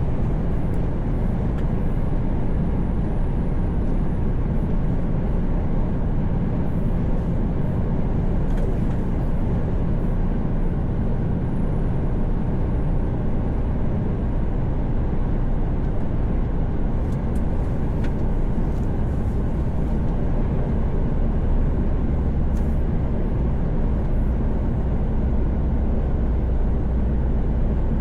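Mercedes-Benz Actros truck cruising at highway speed, heard from inside the cab: a steady low engine drone with tyre and road noise.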